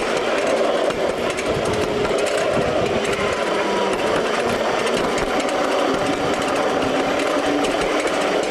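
Steady, rapid clatter of a 5-inch gauge miniature ride-on train running along its track.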